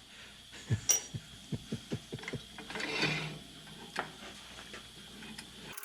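A quick run of light mechanical clicks and knocks, like metal parts or a tool being worked by hand, followed by a short scrape and a couple of single clicks.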